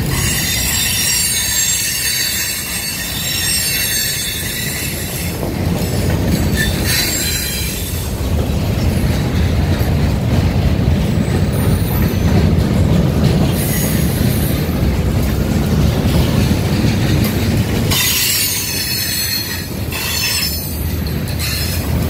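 A CSX mixed freight train's boxcars, centerbeam flatcars and tank cars rolling past on the rails with a steady rumble. High-pitched wheel squeal runs through the first few seconds, comes in brief bursts in the middle, and returns for a few seconds near the end.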